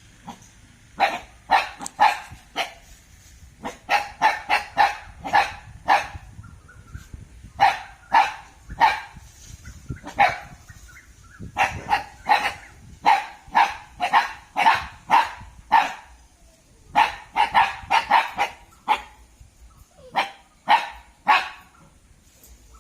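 Thai Ridgeback dog barking on alert, in runs of short, sharp barks separated by brief pauses.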